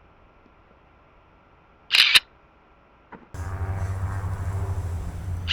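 A camera shutter fires once about two seconds in, a quick double click. A steady low hum comes in just after three seconds.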